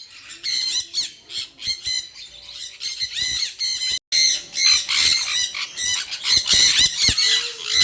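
Sun and jenday conures screeching together: a dense, continuous chatter of rapid, shrill calls, with a brief break about four seconds in.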